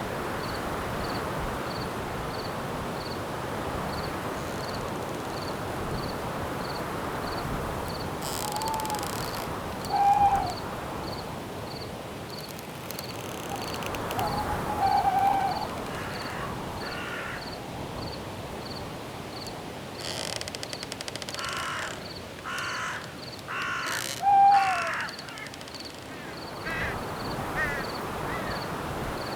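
Night-forest ambience: wind in the branches as a steady rush, with a cricket chirping about twice a second throughout. Over this a bird calls several times, with the loudest calls through the middle and near the end.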